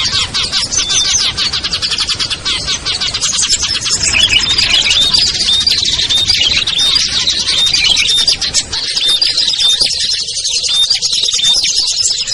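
Dense, loud chorus of small songbirds chattering and chirping, a bird-lure recording mixing several species. Rapid high ticking calls run throughout, and from about four seconds in a short whistled note repeats about twice a second.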